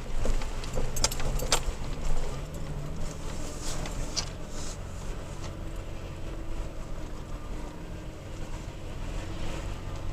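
Toyota Tacoma engine and tyres running steadily on a rough mountain dirt road, heard from inside the cab, with sharp rattles and knocks from the truck jolting over bumps, several in the first five seconds.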